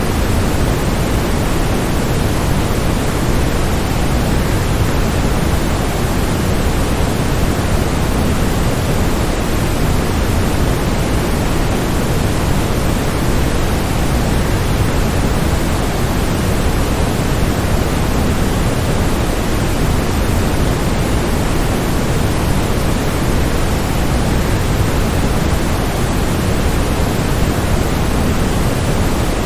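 Waterfall white noise: a steady, unchanging rush of water-like noise, fullest in the low end and thinning toward the top, with no splashes or changes.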